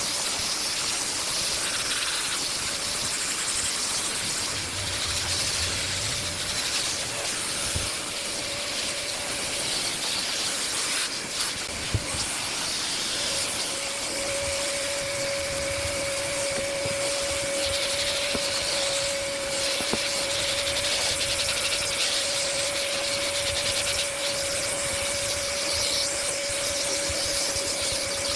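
A vacuum cleaner runs steadily, with air hissing through the hose and nozzle and a steady motor whine that grows stronger about halfway through. There is a single sharp knock in the middle.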